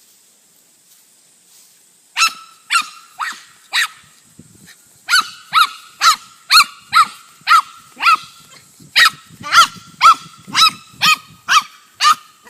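Dog barking in a quick, high-pitched run of short barks, about two a second, starting about two seconds in.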